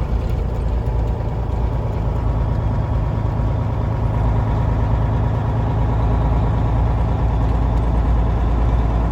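Freightliner FLD's Cummins N14 inline-six diesel running steadily while the truck gets under way, heard from inside the cab, slowly getting a little louder.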